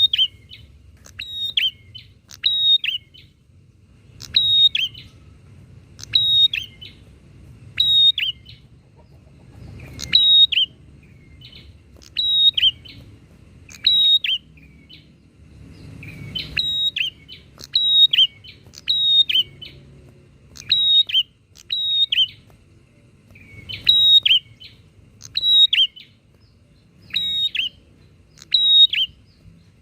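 Prinia (prenjak) calling over and over, each call a sharp high note that falls quickly in pitch, roughly once a second.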